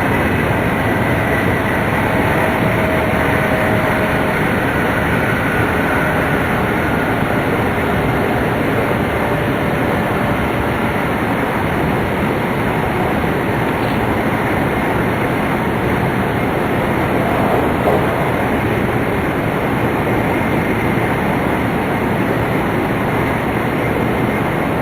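Steady running noise of a Tohoku Shinkansen Hayate bullet train heard from inside the passenger car: an even rumble and rush of wheels on rail and air along the body, with faint held tones now and then.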